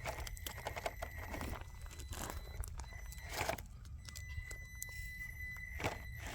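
Traxxas TRX4M 1/18 electric RC rock crawler clambering over rock, its tyres and chassis scraping and crunching in irregular clicks, with a thin electric motor whine between about four and six seconds in.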